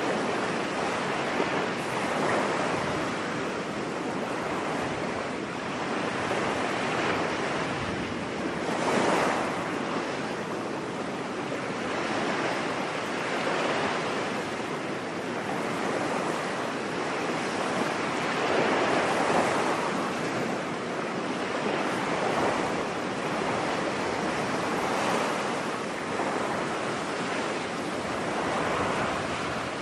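Ocean surf: waves washing onto a beach in a steady rush of noise that swells and falls back every few seconds.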